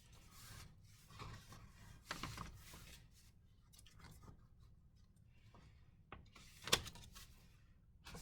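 Soft rustling and handling of journal pages as they are turned, with one sharp tap about two-thirds of the way through.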